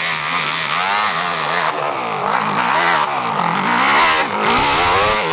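Dirt bike engine revving hard on a steep hill climb, its pitch rising and falling about twice a second as the throttle is worked.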